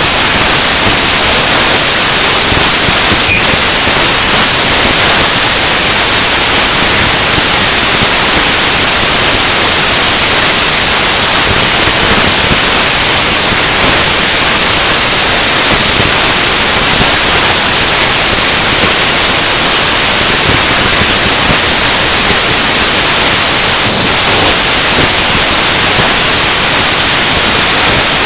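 Harsh noise music: a loud, steady wall of hissing static, mostly high-pitched and unchanging.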